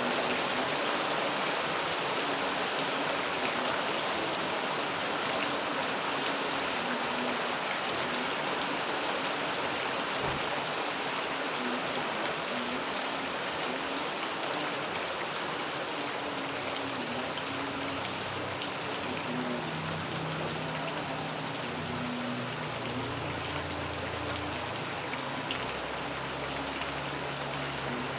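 Steady rain falling, an even hiss of drops. A faint low hum joins underneath in the second half.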